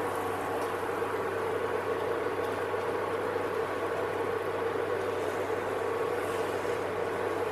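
Butter and cheese sizzling steadily in a hot Fiskars Functional Form non-stick aluminium frying pan, over a steady low hum.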